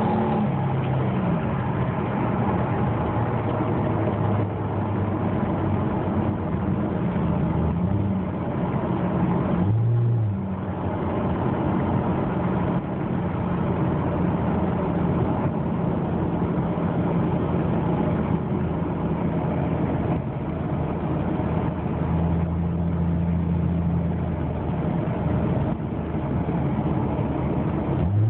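2006 Ford Mustang's 4.0-litre V6 running through a Flowmaster Super 44 dual exhaust with X-pipe while the car is driven. The engine note holds fairly steady, dips and picks up again about ten seconds in, and rises in pitch near the end.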